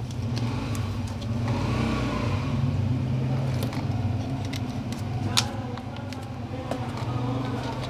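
A steady low engine hum, with scattered small clicks and taps from a plastic bottle cap being twisted and handled; one sharper click about five seconds in.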